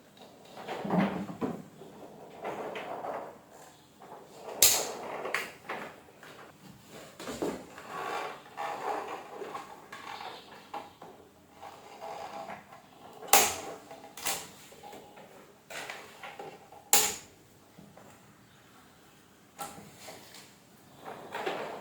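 Irregular handling and clattering noises of parts and tools being moved about, with three sharp knocks standing out about 5, 13 and 17 seconds in.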